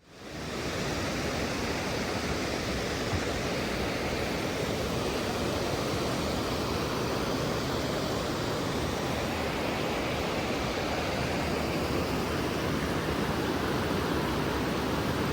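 Steady rushing noise, even and unbroken, fading in quickly at the start.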